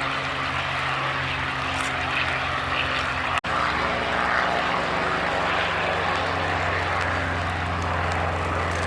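Piston engine of a propeller-driven WWII warbird running at high power, a steady engine sound with propeller noise, broken by a split-second gap about three and a half seconds in.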